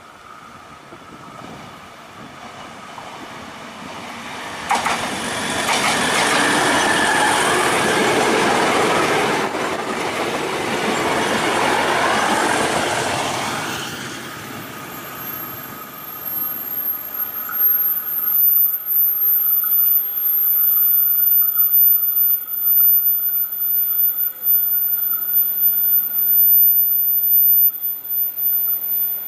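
KAI Bandara YIA Ekspres airport train passing close on a sharp curve. The loud rush of wheels on rail carries a wavering squeal, loudest between about a fifth and half of the way through. Later a thin, high-pitched whine goes on under uneven, fluctuating noise as the train draws away.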